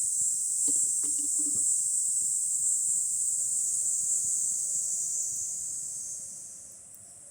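Steady, high-pitched chorus of insects that fades away near the end, with a few faint clicks about a second in.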